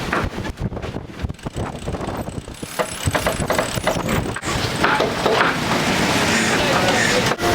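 A run of small clicks and knocks aboard a Dazcat catamaran under sail, then the rush of wind and water swells up about four seconds in.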